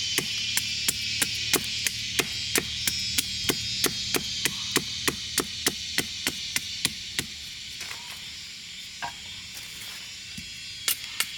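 Rapid, evenly paced strikes of a tool on wood, about three a second. They stop for a few seconds near the end, then start again.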